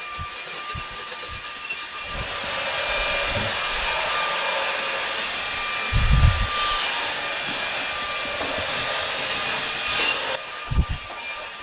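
Orfeld cordless stick vacuum running with a steady whine and rush of air, growing louder about two seconds in and switching off shortly before the end. Low knocks come about six seconds in and again just after it stops.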